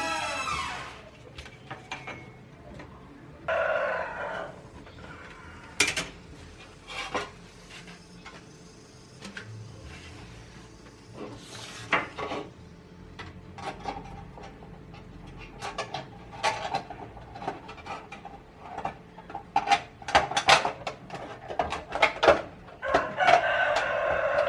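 Tin snips cutting thin zinc sheet metal: a run of irregular sharp clicks and snaps. A rooster crows in the background about four seconds in.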